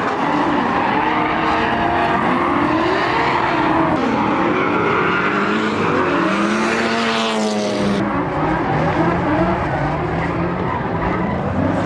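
Drift cars on track: several engines revving up and down over one another, with tyres skidding, and one car sweeping past about seven seconds in.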